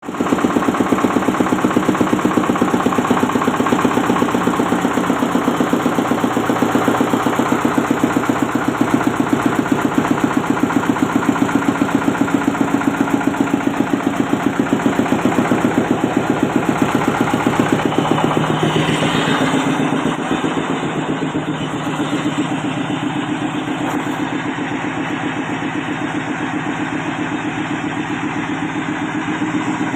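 Stationary diesel engine running steadily under load, driving production machinery, with a regular beat of firing strokes. About two-thirds of the way through, the sound eases slightly and changes tone.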